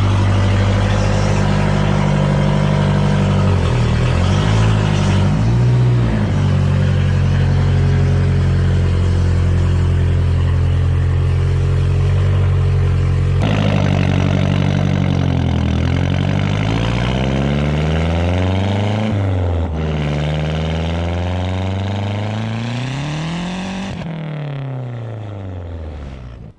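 Mazdaspeed3's turbocharged 2.3-litre four-cylinder through a 3-inch straight-pipe exhaust. It runs steadily at idle with a brief blip of revs about four seconds in. After a cut about halfway, it revs up and down, its pitch climbing and falling several times before the sound stops.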